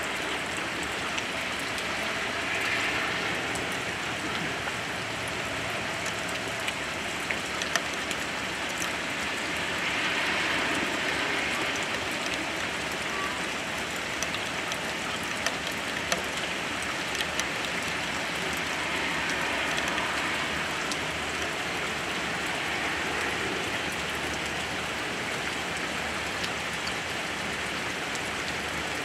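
Heavy rain pouring steadily onto grass and pavement, swelling a little now and then, with scattered sharp ticks of drops landing close by.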